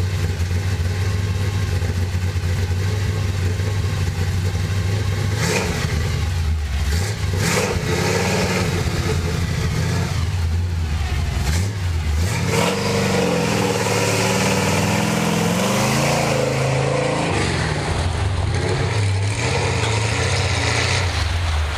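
Truck's 412 stroker engine running, steady at first, then with its revs rising and falling in the second half.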